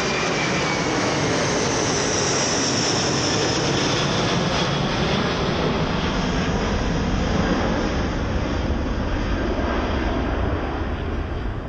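Boeing 747's four jet engines at go-around thrust as the airliner climbs away: a loud steady rush with a high whine that slowly falls in pitch, the sound turning to a deeper rumble as the high end fades toward the end.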